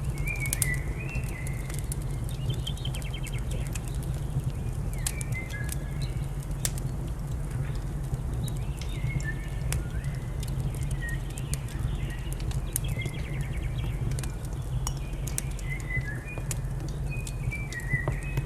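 Wood fire crackling with frequent sharp pops over a steady low rumble, while small birds chirp short, repeated phrases throughout.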